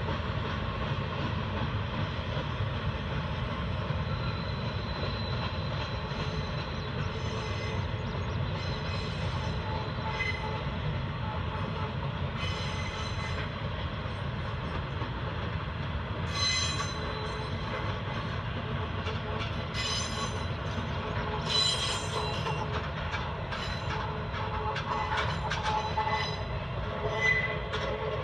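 Freight train cars rolling past on the track, a steady rumble of wheels on rail. Short metallic clanks and squeals come more often in the second half.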